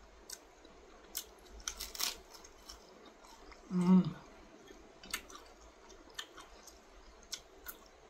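A person chewing crisp lettuce and food, with scattered sharp crunches, and a short hummed "mm" of enjoyment about four seconds in.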